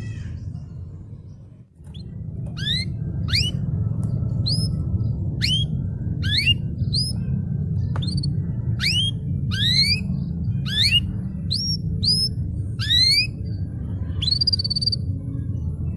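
Domestic canary singing a series of quick rising whistled notes, about one or two a second, with a longer held note near the end, over a steady low hum.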